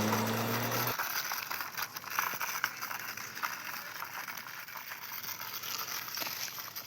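A steady engine-like drone cuts off abruptly about a second in, followed by irregular light rattling, scraping and crackling clicks.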